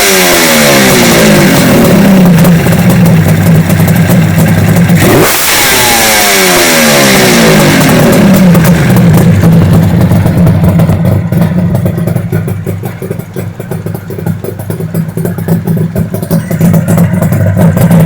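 Suzuki GT550 two-stroke triple on three tuned expansion-chamber exhausts with short silencers, revved in neutral. The revs fall away at the start, a second sharp throttle blip comes about five seconds in and drops back over a few seconds, and then it idles with an uneven, stuttering beat.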